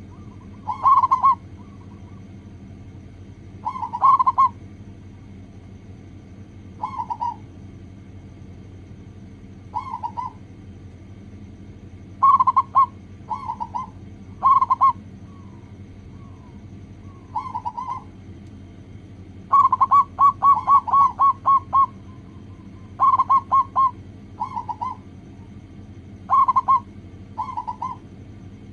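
Zebra dove (perkutut) cooing: short bursts of soft coo notes every few seconds, with one quick run of about eight notes about two-thirds of the way through, over a steady low hum.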